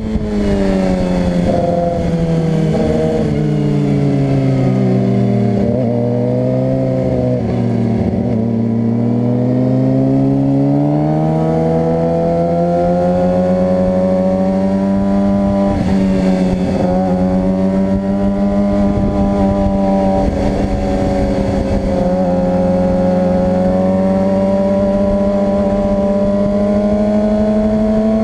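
Suzuki GSX-R 600 inline-four sport-bike engine at speed on a track. The revs drop in steps over the first eight seconds or so as it slows and downshifts, stay low briefly, then climb steadily under throttle. There is a short dip around sixteen seconds, and the engine then holds high revs.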